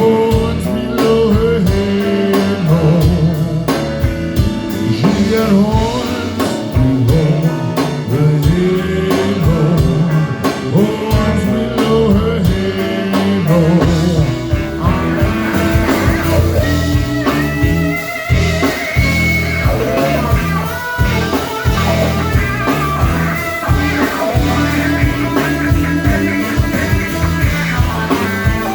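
Blues band playing an instrumental passage after the vocal chorus: guitar lines over bass and a drum kit with a steady beat, with a bending high guitar line in the second half.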